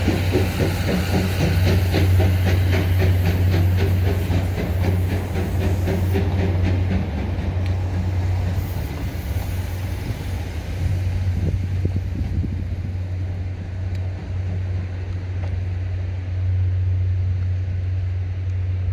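A train running past on the rails, with a fast regular clatter of wheels over rail joints that thins out and fades as it moves away.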